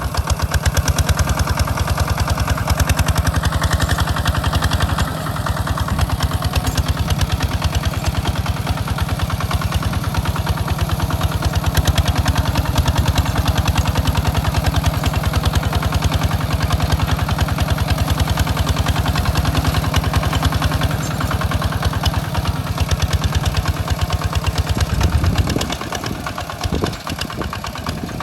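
Engine of a Hinota walk-behind two-wheel tractor running steadily with a fast, even firing beat while plowing a rice field. The engine eases off near the end.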